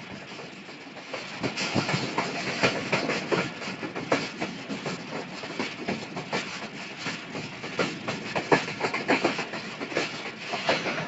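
Train wheels clattering over rail joints, a fast irregular run of clicks and knocks over a rumbling hiss that picks up about a second in.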